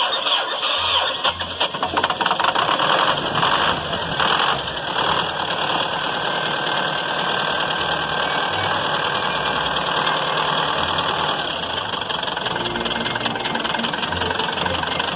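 MMZ D245 four-cylinder diesel engine running just after starting with its glow plugs disconnected. It runs rough and uneven for the first few seconds, then settles into a steady idle.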